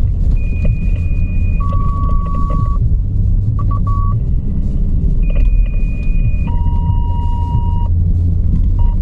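Steady low rumble of a running vehicle, with a radio sounding long electronic tones in pairs, a high tone followed by a lower one. A few short beeps come between the two pairs.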